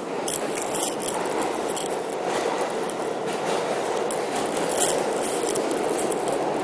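A New York City subway train running, heard from inside the car: a steady rumble of wheels on track with scattered sharp clicks and rattles.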